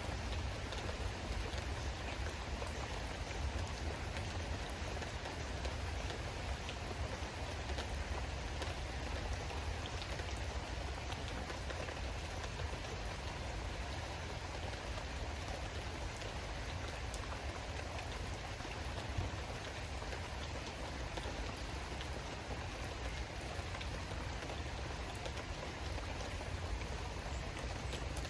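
Steady rain falling, with scattered drops ticking on surfaces and a low rumble underneath.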